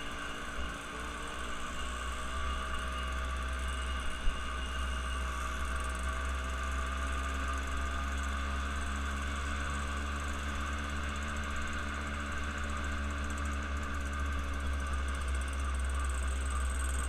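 Steady running noise of a vehicle's engine and road, with a strong low hum that holds level throughout, and one short sharp click about four seconds in.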